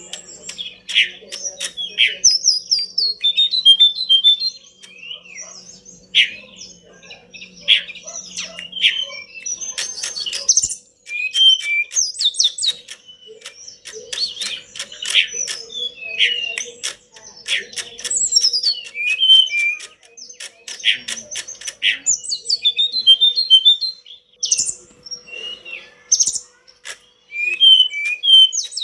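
A tledekan gunung songbird singing a lively, varied song: quick chirps, rattling trills and short whistled notes in rapid runs with brief pauses between them.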